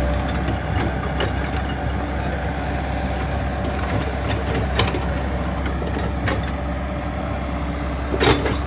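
Backhoe's diesel engine running steadily, with a few sharp clicks or clanks on top.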